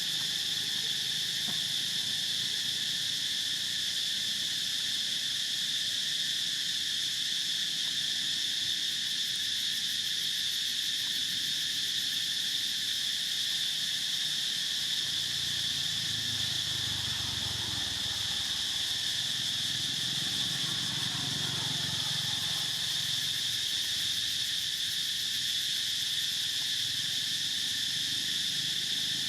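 A steady, unbroken chorus of insects with a high, even buzz. A faint low rumble rises and fades about halfway through.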